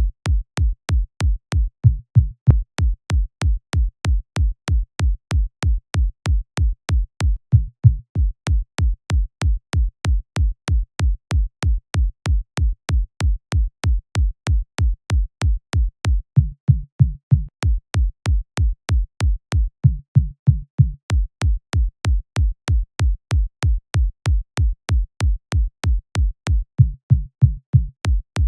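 Synthesized electronic kick drum looping in a steady four-on-the-floor pattern, about two hits a second, each a deep low thump with a short click on top. A few times a brief bass note sounds with it.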